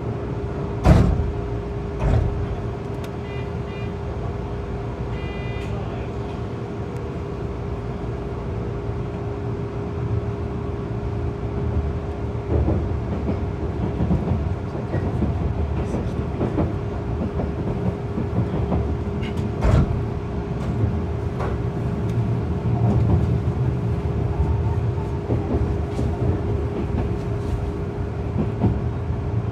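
Cab interior of a Tobu N100 series Spacia X train running on the line: a steady rumble of wheels on rail under a constant hum. Sharp knocks come as the wheels cross rail joints and points, loudest about a second in and again about two seconds in. A few short, high electronic beeps sound a few seconds in.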